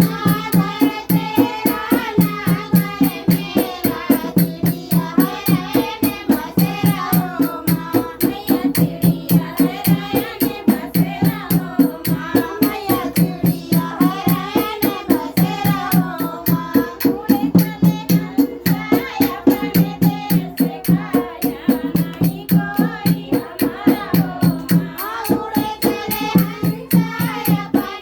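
Dehati (rustic) Hindi devotional folk song to the Mother goddess: singing over a dholak beating a fast, steady rhythm.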